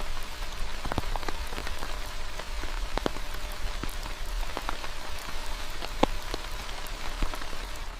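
Steady rain, with individual drops ticking sharply on a surface every so often; one louder drop lands about six seconds in.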